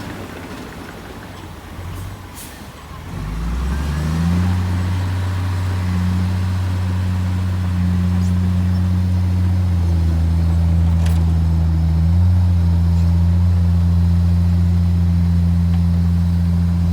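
Heavy diesel engine of earthmoving machinery, running lower for the first few seconds, then revving up about three seconds in and holding a steady low drone with small shifts in pitch later on.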